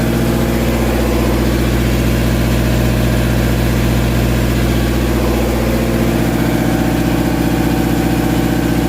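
Boat's inboard engine running steadily at a constant speed, with an even, unchanging engine note.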